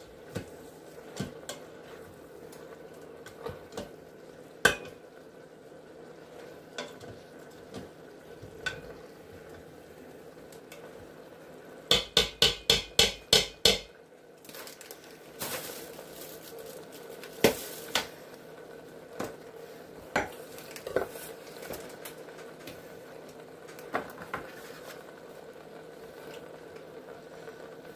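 Kitchen utensil clinking and stirring in the Instant Pot's inner pot, with scattered sharp clicks and a run of about eight quick knocks about twelve seconds in.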